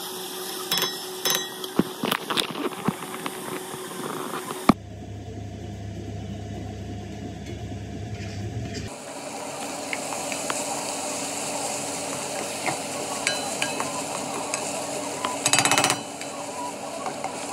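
Diced peppers and onions sizzling in a metal pot while a nylon slotted spatula stirs them, clicking and scraping against the pot. After a low hum in the middle, sliced kielbasa and vegetables fry with a steady sizzle as they are stirred, with a short loud scrape near the end.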